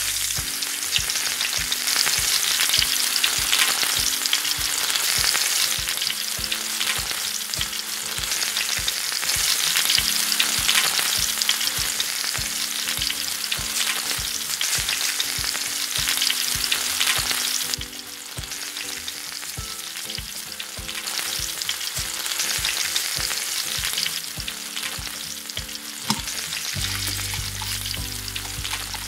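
Food sizzling and frying in a miniature pan, with a steady crackling hiss that swells and eases and turns quieter about two-thirds of the way through.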